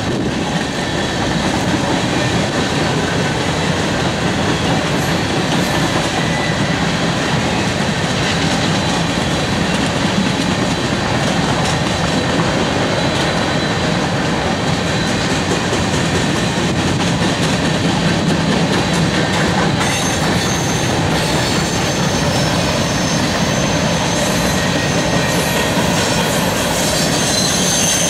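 Freight train of covered hopper cars passing fast, with a steady rumble and rattle of wheels on rail. From about twenty seconds in, a high-pitched squeal from the wheels joins it.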